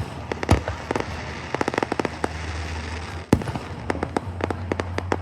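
Fireworks going off: big booms about half a second in and just past three seconds, with rapid runs of sharp cracks in between, like crackling shells and firecrackers.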